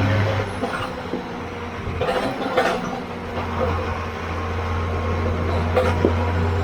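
Harvest machinery's engine running steadily with a deep, even hum, with a few sharp knocks and rattles over the top.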